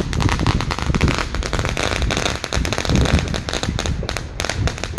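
Fireworks crackling and popping in a rapid, uneven string like firecrackers, many pops a second, over a low rumble.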